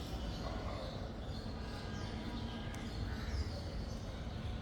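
Faint bird chirps repeating about once a second over a steady low rumble.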